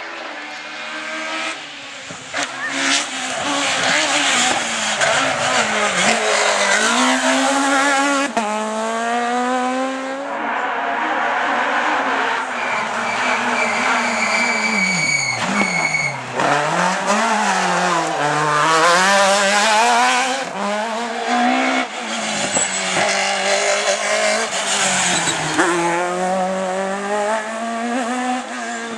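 Two-litre rally car engine revving hard, its pitch repeatedly climbing and dropping as it is driven through the gears and off the throttle.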